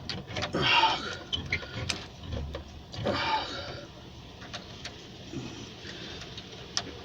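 Tools and metal fittings clicking and scraping as parts of a gas water heater are put back together and tightened, with scattered sharp ticks and two louder spells of scraping.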